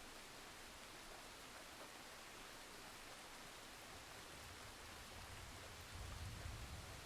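Faint, steady hiss of rain from a rain and storm ambience track, with a low rumble swelling in about four seconds in and peaking near the end.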